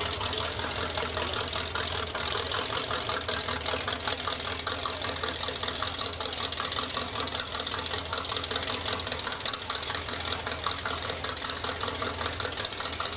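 A car engine idling steadily, with a fast, even pulsing.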